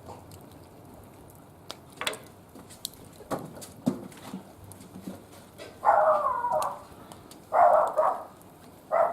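A dog barking, four times in the second half, the first two barks longer and the last two short. Before that there are light scattered clicks.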